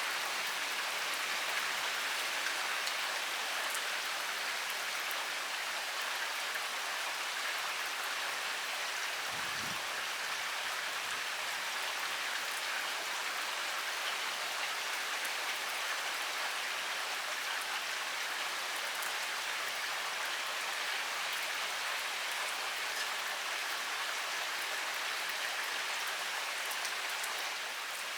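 Heavy rain pouring steadily, an even hiss of countless drops striking surfaces, starting to fade right at the end.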